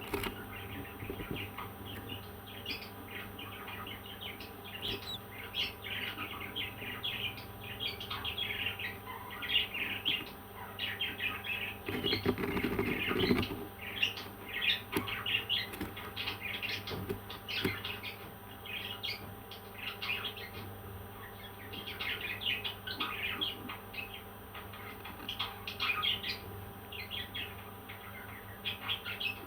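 Parrots chirping in many short, high calls, with a burst of lower noise, like rustling or wing flapping, about twelve seconds in.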